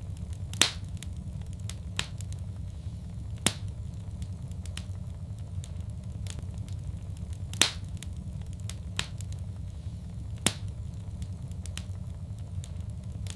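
Wood fire in a fireplace crackling: a steady low rumble with sharp pops and snaps every second or two, the loudest about half a second in and again about two thirds of the way through.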